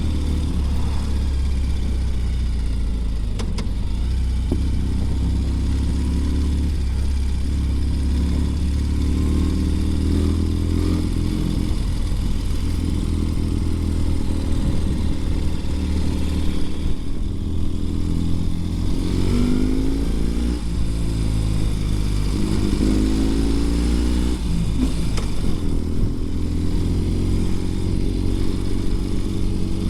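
2020 Ural Gear Up sidecar motorcycle's air-cooled 750 cc boxer twin running on the move, its pitch rising and falling several times in the second half as the rider works the throttle and gears.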